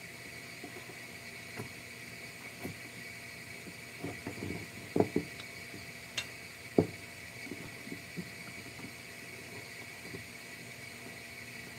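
Scattered light knocks and taps, the loudest a pair about five seconds in and a single one near seven seconds, over a steady faint high-pitched hum.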